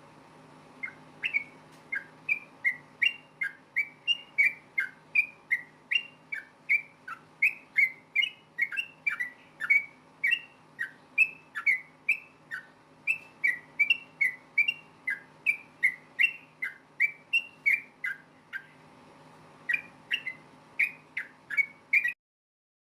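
Yellow-vented bulbul (trucukan) singing a rapid, unbroken string of short, loud whistled notes, about two a second. It starts about a second in and cuts off suddenly near the end. A faint steady hum sits underneath.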